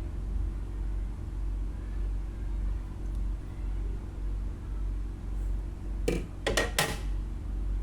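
Steady low hum throughout. About six seconds in there is a brief cluster of three or four crinkling handling noises as items from the packing are moved.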